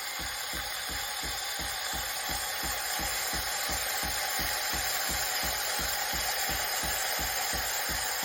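Philips 5400 Series bean-to-cup espresso machine running steadily: a constant hiss with a low pulsing about four times a second.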